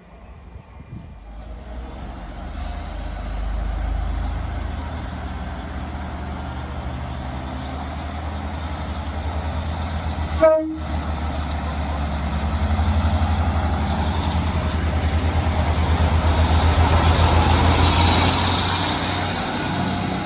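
A train approaching and running past, its low rumble building up and taking on a rhythmic beat that is loudest near the end. A single short sharp sound comes about halfway through.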